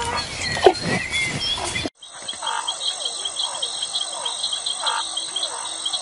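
A flock of greater flamingos calling: a dense chatter of many short, overlapping calls over a steady high insect trill. It starts abruptly about two seconds in, after a short stretch of open-air ambience with a few bird chirps.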